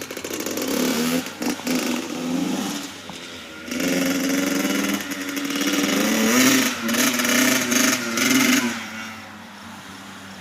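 Small motorcycle engine revving up and down as it is ridden, its pitch rising and falling several times, then dropping away to a quieter low level near the end.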